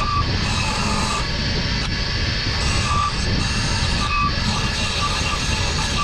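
A steady machine sound, like a motor-driven workshop power tool running continuously.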